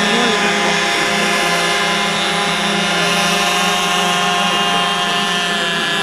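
RC airboat's model in-line engine and propeller running at a steady speed, a constant buzzing drone that holds one pitch.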